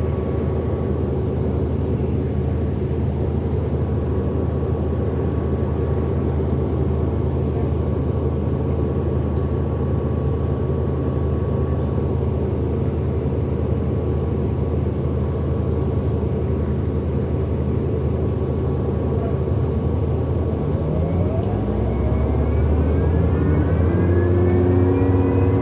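Inside a 2008 Orion NG hybrid-electric city bus: a steady low drone with a faint constant high tone. About 20 seconds in, a whine from the hybrid drive motor starts rising steadily in pitch as the bus accelerates.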